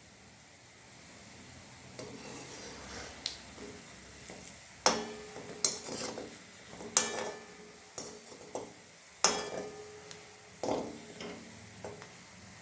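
Langcha (chhena dough sweets) deep-frying in oil in a pan with a faint sizzle. From about five seconds in, a metal utensil knocks and scrapes against the pan several times as the pieces are stirred and turned.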